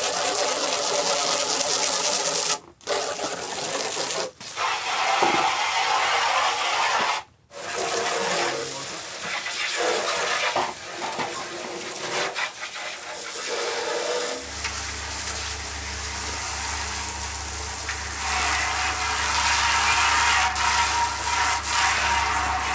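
Steady rushing water noise, broken by a few abrupt cuts in the first third. A low steady hum joins it about two-thirds of the way through.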